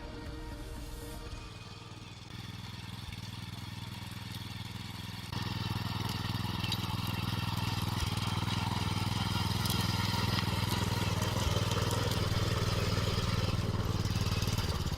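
Bumyang VP-225B cultivator's four-stroke gasoline engine running steadily, getting louder about five seconds in.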